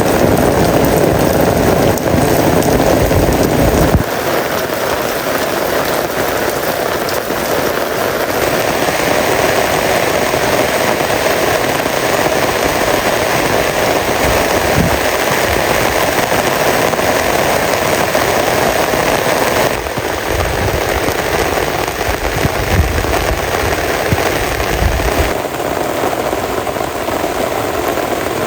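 Heavy rain falling, a dense steady hiss. Bouts of low rumble come in the first few seconds and again after about twenty seconds.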